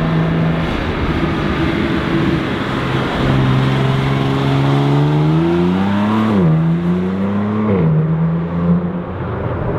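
BMW G82 M4's twin-turbo inline-six running through an AWE SwitchPath axle-back exhaust. The note holds steady, steps down about three seconds in, then climbs and drops sharply twice before settling.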